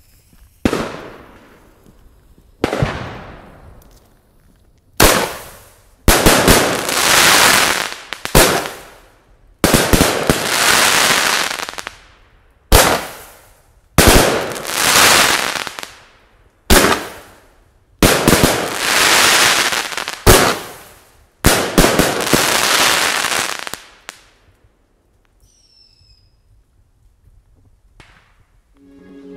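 A Jorge JW608-S 30mm consumer fireworks cake firing shot after shot. Each sharp launch thump is followed by a second or two of crackling. The volley stops about 24 seconds in.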